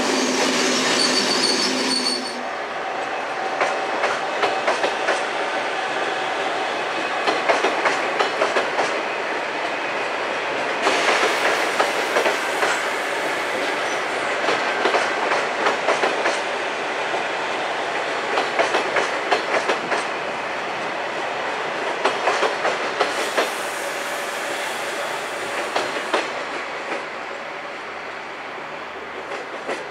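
Two-unit ZTER (Z 21500) electric multiple unit passing along the platform, with a steady rolling rumble and bursts of wheel clicks every few seconds as its bogies cross rail joints.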